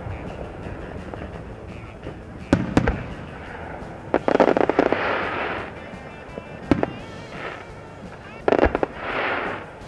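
Fireworks display: aerial shells bursting overhead, two bangs about two and a half seconds in, a cluster of bangs about four seconds in trailed by a crackling shower, a single bang near seven seconds, and another cluster with crackle near the end.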